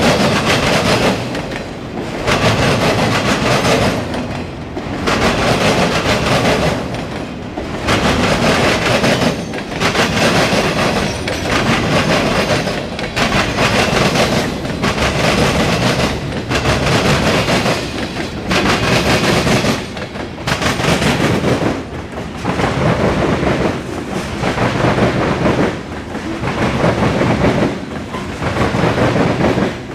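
CSX mixed freight train rolling past close by: the wheels clatter over the rail joints, and the loudness swells and dips about every two seconds as each car goes by.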